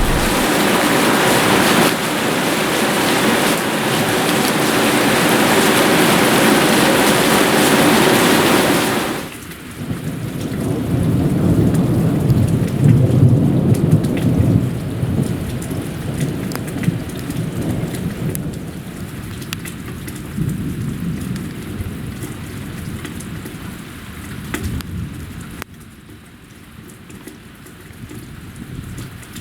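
Heavy rain pouring down in a thunderstorm. About nine seconds in, the loud hiss drops away abruptly and a long, low roll of thunder rumbles, then slowly fades, with lighter rain continuing underneath.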